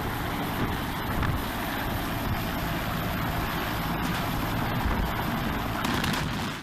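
A helicopter running close by: steady, dense engine and rotor noise.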